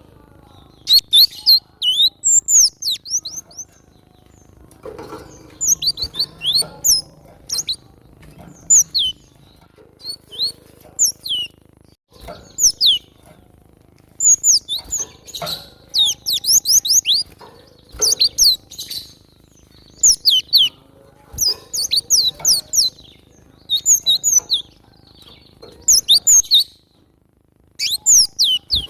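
Cinereous tit (gelatik batu) singing vigorously: quick runs of high, sharp, downward-sweeping chirps, in short phrases repeated every second or two with brief pauses.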